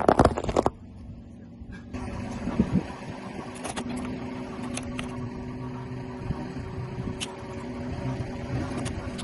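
A car's tyre rolling over and crushing objects, with a burst of loud crackling crunches in the first second. After that the car's engine runs with a steady low hum, broken by a few scattered sharp cracks.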